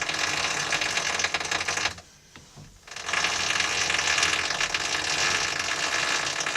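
Front suspension creaking and crackling on the wheel side, heard from inside the car, in two long stretches with a pause of about a second between them. The steering box makes no sound, which places the creak in the suspension at the wheel.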